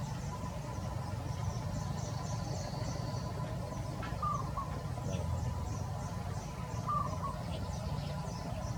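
Outdoor ambience with a bird giving a short call about every three seconds, over a steady low rumble and a scatter of faint, high chirps.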